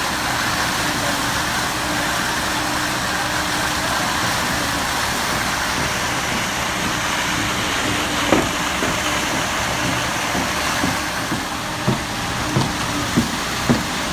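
Diesel engine of a concrete pump truck running steadily. In the second half a series of sharp knocks sounds over it, about one every half second to second.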